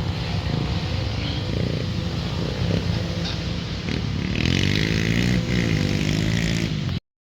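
Dirt bike engines running steadily, with one bike revving up and down about four and a half seconds in; the sound cuts off suddenly near the end.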